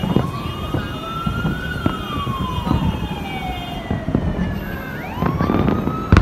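Siren wailing in slow rising and falling sweeps, about five seconds to a cycle, over scattered firework pops and crackles, with one sharp bang near the end.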